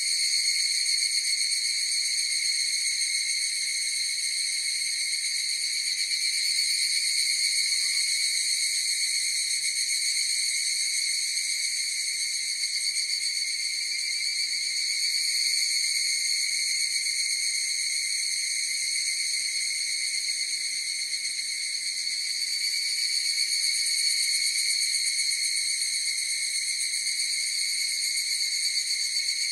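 Chorus of higurashi (evening cicadas, Tanna japonensis) calling, a continuous shrill high-pitched ringing that swells and eases gently.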